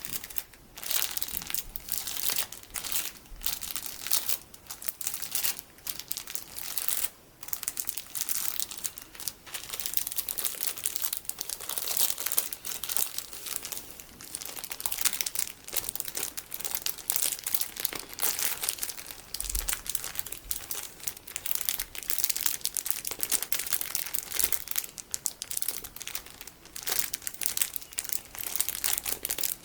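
Plastic packaging of colorful sticky beads crinkling in rapid, crackly bursts with brief pauses between them.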